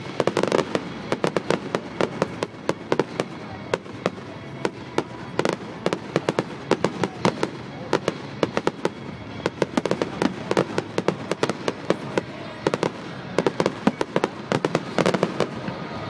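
Fireworks display going off in rapid volleys: dozens of sharp bangs and crackles, bunched in several dense bursts.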